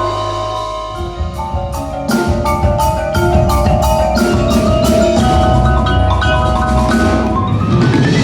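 Winter percussion ensemble playing: marimba and other mallet keyboards hold and move through chords. From about two seconds in, a steady run of sharp drum strikes joins underneath.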